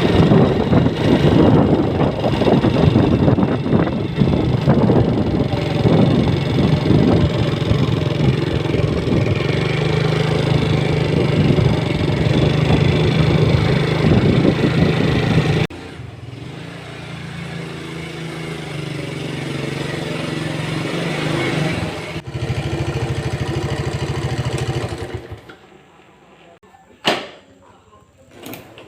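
A vehicle engine running, heard in spliced segments: loud and steady at first, then suddenly quieter and slowly rising, then cutting off two thirds of the way in. A single sharp click follows.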